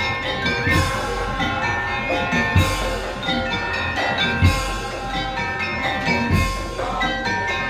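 Madurese tong-tong (ul daul) percussion ensemble playing: a ringing metallophone melody over drums, with a heavy bass hit about every two seconds.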